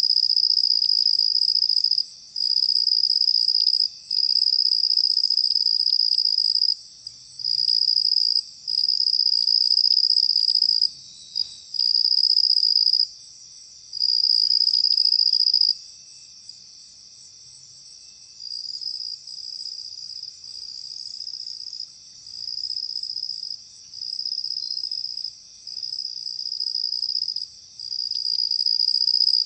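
Insects trilling in a high, steady buzz, in phrases of one to three seconds broken by short pauses. The trilling drops to a quieter, choppier stretch about halfway through and comes back loud near the end.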